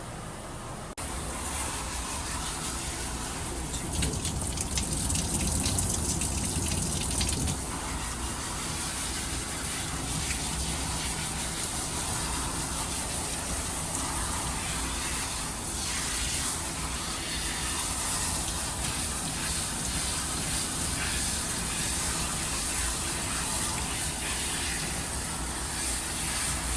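Water spraying steadily from a dog-wash station's hose onto a dog being bathed, switching on sharply about a second in.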